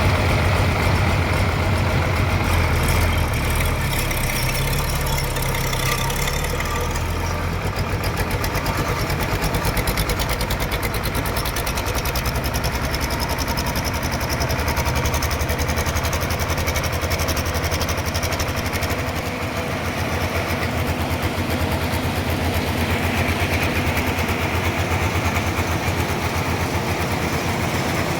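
Sawmill machinery running steadily, an engine-driven saw with a fast, even pulse to its running.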